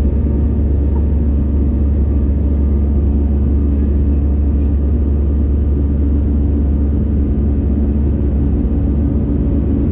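Steady, even drone of an Airbus A320 climbing after take-off, its jet engines and airflow heard from inside the passenger cabin, deep and unchanging.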